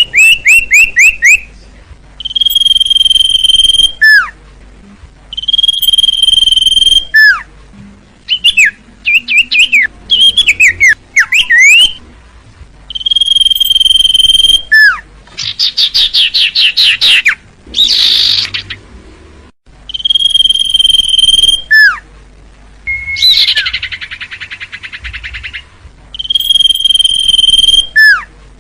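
Common iora (cipoh) singing loudly. Its long steady whistle, held about a second and a half and ending in a sharp downward note, comes about every four seconds. Between the whistles are runs of quick falling chirps and a couple of buzzy, rattling trills.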